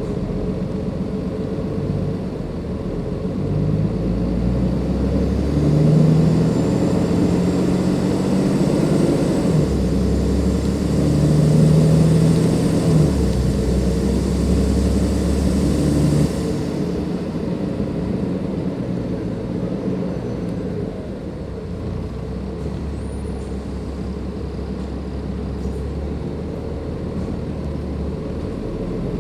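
Cummins ISLe 340B diesel engine of a Dennis Enviro 500 double-deck bus under way, pulling hard with a loud turbo hiss and a faint high whine. The turbo hiss cuts off suddenly about sixteen seconds in, and the engine then runs on lower and quieter.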